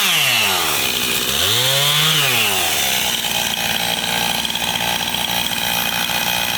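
Two-stroke chainsaw running at high throttle while cutting firewood. Its engine pitch drops sharply at first, rises and falls again about two seconds in, then holds steady.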